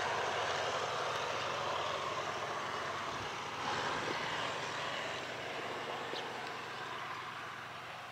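A train running past at a station, its steady rolling and engine noise slowly fading as it moves away.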